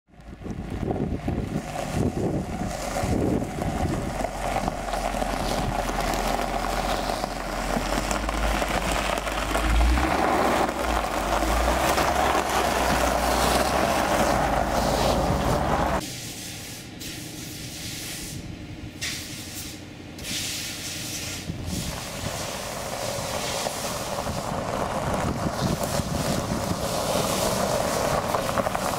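A 2007 Dodge Charger SRT8's 6.1-litre Hemi V8 running, heard close at the rear with a deep steady rumble. About halfway through the sound drops suddenly to a quieter level, then builds again as the car moves off across gravel.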